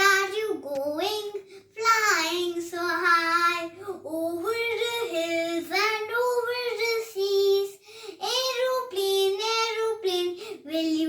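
A child singing a short rhyme about an aeroplane, without accompaniment, in held notes that slide from one to the next.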